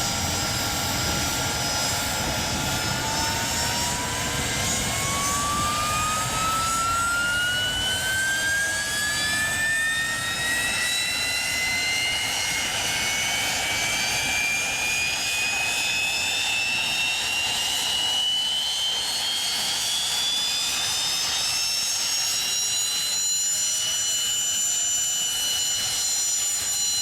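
Mi-26 helicopter's D-136 turboshaft engine spooling up during start, its turbine whine rising steadily in pitch for about twenty seconds over a steady roar, then levelling off near the end.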